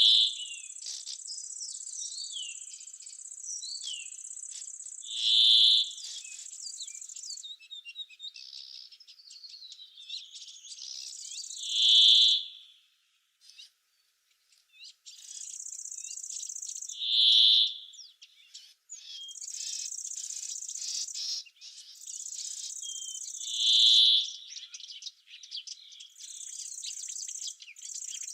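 Summer woodland ambience: insects keep up a high-pitched buzzing that starts and stops in stretches of several seconds, while small birds chirp. A louder short call repeats about every six seconds, five times in all. The sound drops out briefly about halfway through.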